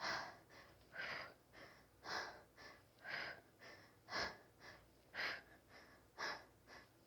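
A woman's hard, rhythmic exercise breathing: a sharp exhale about once a second, each followed by a shorter, quieter inhale, timed to the contractions of one-leg bicycle crunches.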